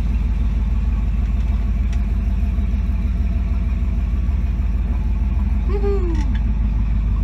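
Nostalgia gasser's engine running at idle, about 800 rpm: a steady low rumble with a fast, even pulse, heard from inside the cab.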